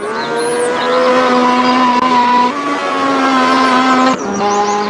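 Race car engine sound effect: a steady, high-revving engine note that steps up in pitch about two and a half seconds in and drops lower about four seconds in.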